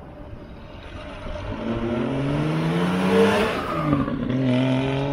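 1972 Triumph TR6's 2.5-litre straight-six engine approaching and accelerating, its note rising in pitch and getting louder. It passes close by about four seconds in, and the note drops and then holds steady.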